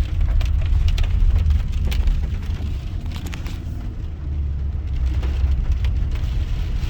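Steady low rumble of a car driving, heard from inside the cabin, with scattered light ticks and clicks.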